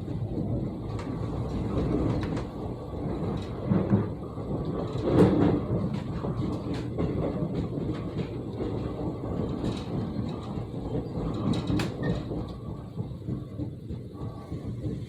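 Gyeongchun Line electric commuter train running at speed, heard inside the passenger car: a steady rumble of wheels on rail with scattered clicks and knocks, the loudest about five seconds in. Through it runs the thumping of wheels that have not been reprofiled (trued).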